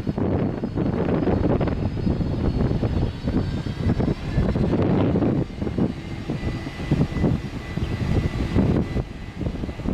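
Jet airliner engines running with a thin steady whine over an uneven low rumble. The rumble eases a little about halfway through.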